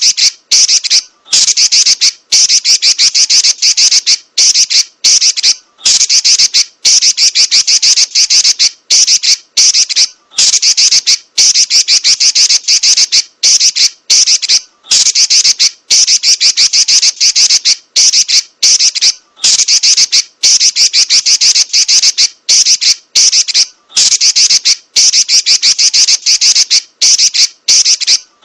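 Female Pekin robin (red-billed leiothrix) giving its rapid, high-pitched chattering trill ('nyerecet'), fast rolling strings of notes in long phrases broken by brief pauses about every one to two seconds.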